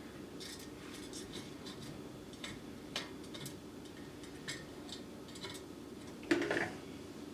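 Small clicks and taps of kitchen utensils and dishes being handled, with one louder clatter about six seconds in, over a low steady hum.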